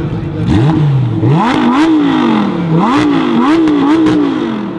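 Sports car engine revved hard in repeated blips, about five in quick succession, each rise in pitch falling away before the next.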